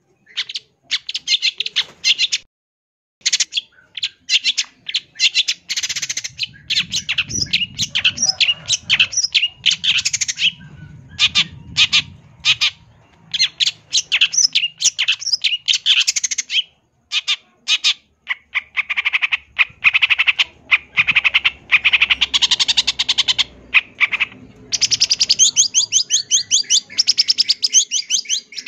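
Long-tailed shrike (cendet) singing a fast, varied song of sharp chattering and squawking notes packed with mimicked phrases, in rapid runs broken by brief pauses.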